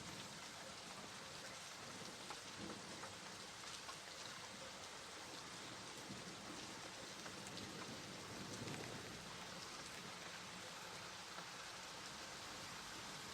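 Steady rain falling on a surface, a soft even hiss with scattered drop ticks.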